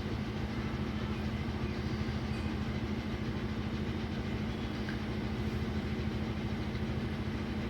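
Hyundai i10 Kappa four-cylinder petrol engine idling roughly and steadily. The engine is misfiring: the scanner later logs repeated misfires on cylinders 2 and 3, which the mechanic traces to water in their plug wells.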